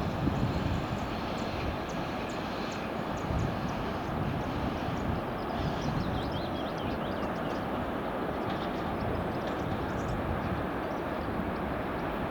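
Steady low rumble of an approaching VL80S electric locomotive and its freight train.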